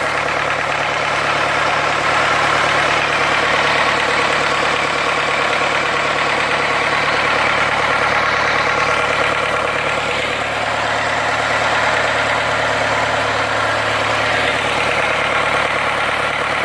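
Reconditioned Mitsubishi 4D32 four-cylinder diesel engine running steadily on a test run, its note shifting slightly about ten seconds in.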